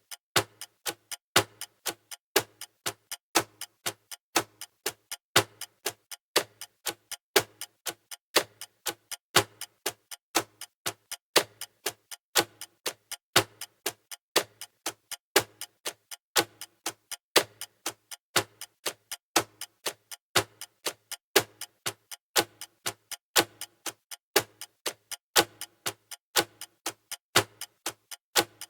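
Clock ticking sound effect for a countdown timer: a steady tick-tock of sharp clicks, about two a second, alternating louder and softer.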